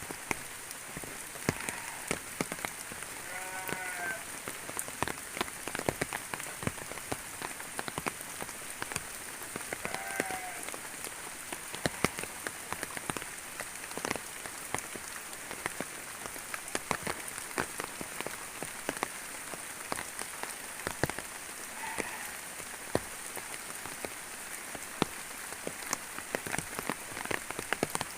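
Steady rain falling, with many sharp drops hitting close by. A short animal call cuts through three times.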